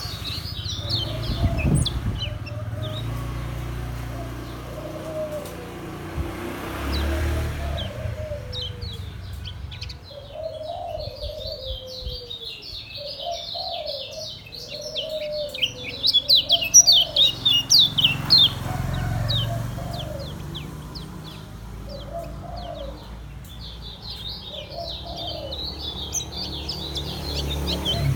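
Lemon-bellied white-eye (kecial kuning) singing in rapid, high twittering runs, the fast continuous 'ngejos' style, with a long unbroken run through the middle and another starting near the end. A lower call rising and falling about once a second sounds beneath it.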